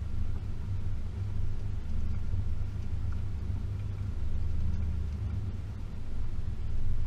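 Range Rover P38's 4.0 V8 driving along at a steady pace: a low, steady rumble that swells and eases a little.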